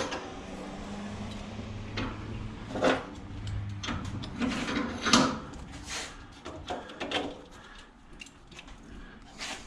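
Scattered knocks, clicks and scrapes of scrap metal parts being handled and pried at by hand, with a low steady hum through the first few seconds.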